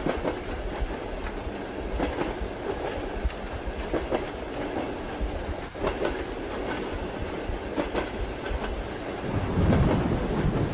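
Passenger train carriage rumbling along with a steady noise of motion, its wheels clicking over rail joints about every two seconds. A deeper, louder rumble swells up near the end.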